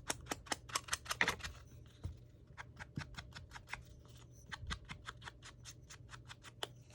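A quick run of light clicks and snips, several a second, from hand crafting work on paper.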